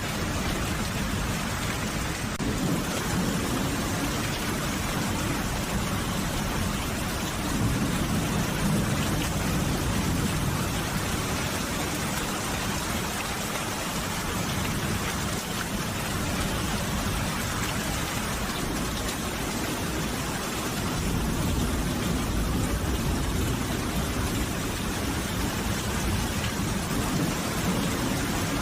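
Steady rain falling in an even hiss, with a low rumble swelling under it about a third of the way in and again past two-thirds.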